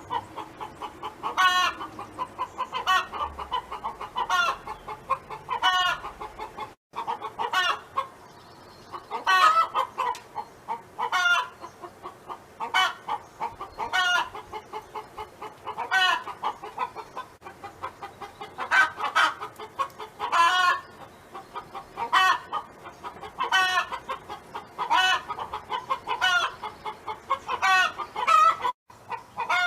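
Domestic hen clucking and calling, a run of short pitched calls repeating about every second or so. There are brief gaps about seven seconds in and near the end.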